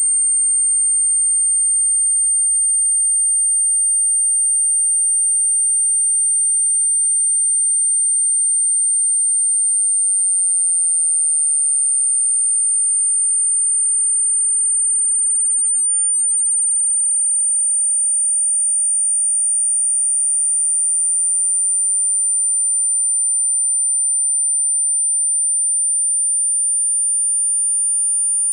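A single steady, very high-pitched pure sine tone, edging very slightly higher in pitch over time. It is a generated speaker-cleaning tone, played to vibrate water and dust out of a phone speaker grille.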